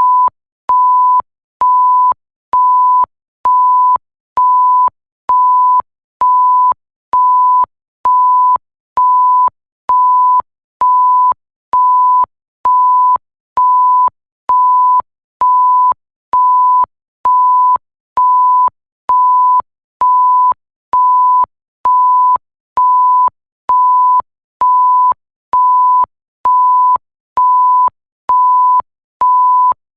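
Electronic bleep tone: a single pure, steady pitch beeping on and off at an even pace, about one short beep a second, with a faint click as each beep starts and stops.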